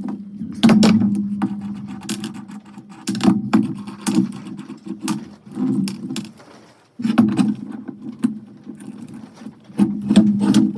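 Repeated sharp metal clanks and rattles over a steady motor hum. The hum and clatter drop away briefly just before the seventh second, then start again abruptly.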